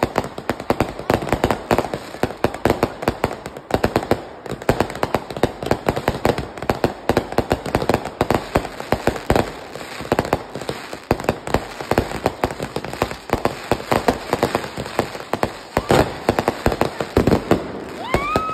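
Fireworks going off in a rapid, unbroken barrage: dense crackling and popping with many sharp bangs a second.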